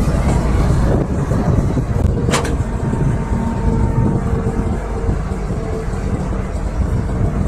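Excavator's diesel engine running steadily with a low rumble, with a single sharp metal clank a little over two seconds in.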